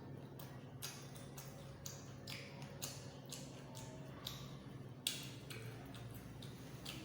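Close-miked eating sounds: irregular wet mouth clicks and smacks from chewing food, a few per second, with one sharper click about five seconds in.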